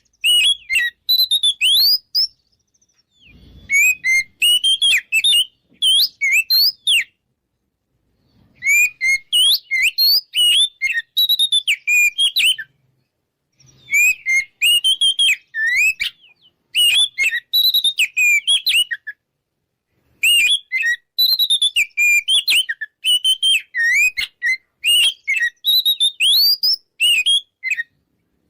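Oriental magpie-robin (kacer) singing a loud, full song of fast, varied, sweeping whistled notes. It sings in phrases a few seconds long, broken by short silences. This is the bold territorial song played to provoke a rival male into fighting.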